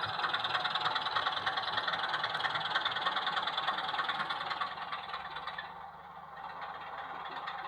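Sound-fitted OO gauge Class 24 model locomotive playing its diesel engine sound through its onboard speaker, a rapid, even engine beat that grows quieter about five seconds in.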